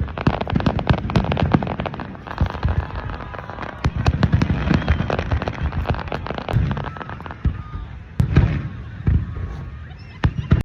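Fireworks display going off in rapid succession: a dense crackle of sharp pops and bangs over repeated deep booms.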